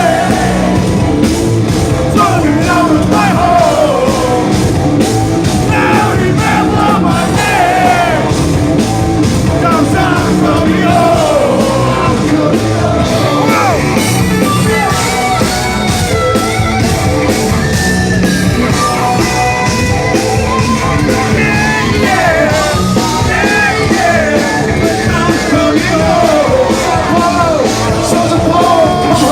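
Progressive metal band playing loud live, with a singer's voice over the full band.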